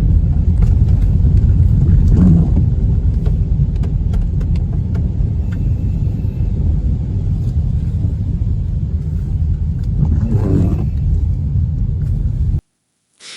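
A steady, loud low rumble that cuts off suddenly near the end, with faint traces of something higher twice along the way.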